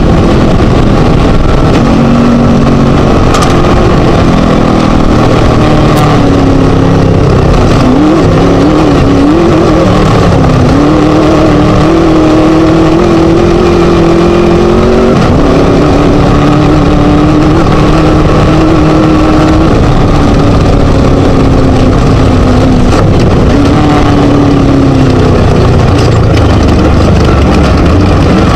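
Scat engine of a Class 1 desert race buggy running hard at race pace, loud throughout, its pitch rising and falling with the throttle. It holds steady for a few seconds at a time and drops back several times. A couple of sharp knocks come in the first few seconds.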